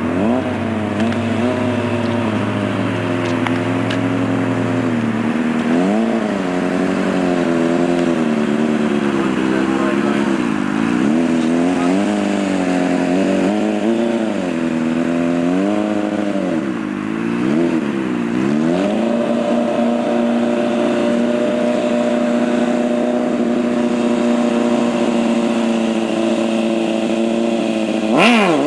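Honda CBR600F4i sport bike's inline-four engine revving up and down as it is ridden through wheelies, its pitch rising and falling every couple of seconds. For the last several seconds the revs hold steady.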